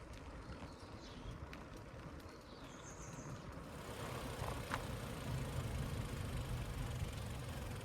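Faint bird chirps over quiet outdoor ambience, then about halfway through a steady low rumbling noise rises and holds.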